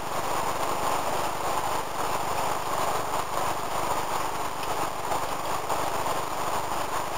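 HO-scale model train running on the layout: a steady whir of the locomotives' electric motors and the rumble of metal wheels rolling on the rails.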